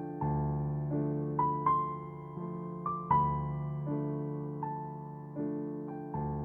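Background music: slow, gentle piano playing soft chords and single notes, each struck and left to fade.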